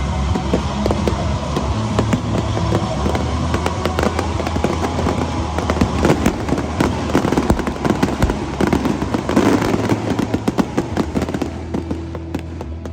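Stadium fireworks display: a dense run of bangs and crackling bursts, thickest in the middle and thinning out near the end.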